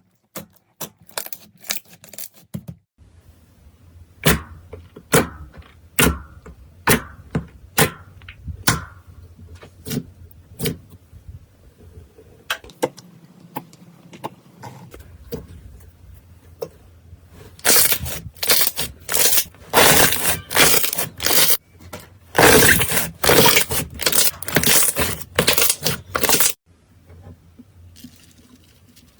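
Foam-bead slime being squeezed and pressed by hand, the beads giving sharp crackling pops, with dense runs of crackles in the second half.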